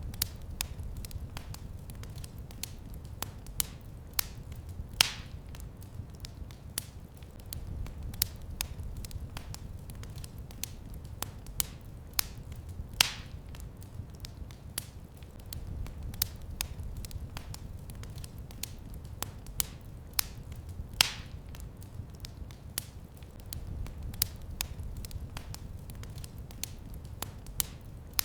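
Wood fire in a fireplace crackling, with many small sharp clicks over a low rumble of burning and a louder pop about every eight seconds.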